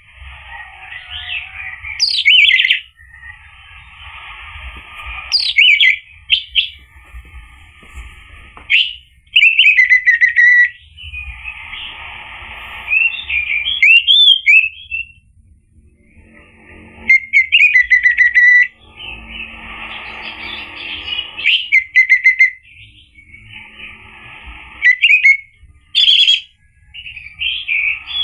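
Orange-headed thrush singing in full song: loud, sweeping whistled phrases mixed with scratchy, hissing passages, delivered in bursts of a few seconds with short pauses between them.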